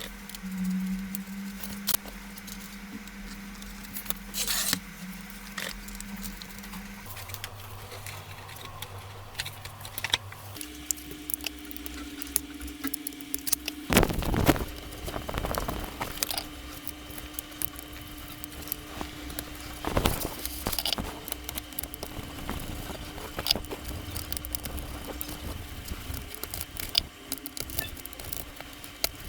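Plastic opening tools and picks clicking, tapping and scraping along the edge of an iPad Pro's display as it is pried open, with a few louder knocks over a steady low hum.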